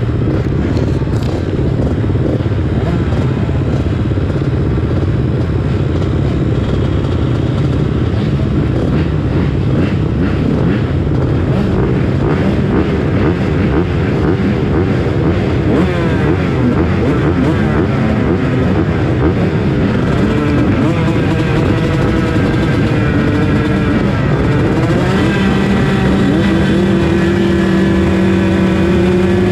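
Motocross bike engine running hard, its revs rising and falling constantly; in the last few seconds the pitch holds steadier.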